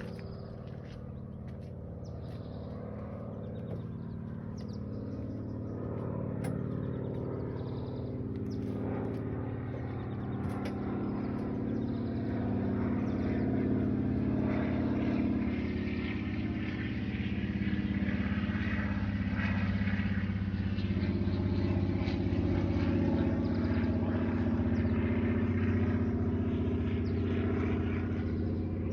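A motor engine running steadily with a low hum, growing louder over the first half and then holding.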